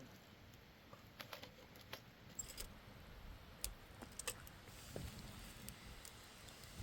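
A few faint, irregular light clicks and clinks, as of small hard objects knocking together, over a low steady hiss.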